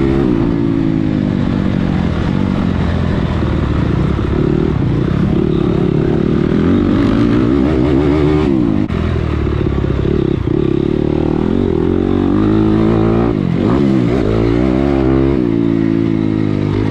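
Dirt bike engine revving hard, its pitch climbing and falling as the throttle is worked through the gears, with the throttle chopped off briefly about nine seconds in and again around thirteen to fourteen seconds.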